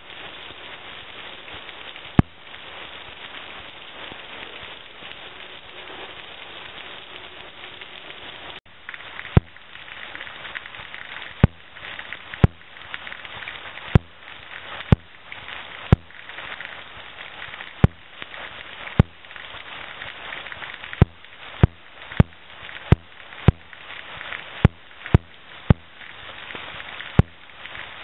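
Heavy rain falling steadily, with irregular sharp taps of large drops landing close by, about one a second and more often in the second half.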